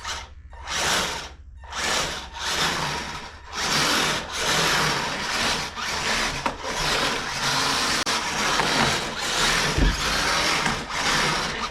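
Kyosho Blizzard radio-controlled tracked snow plough driving under its electric motor. The motor runs in two short bursts, then almost without a break for the rest.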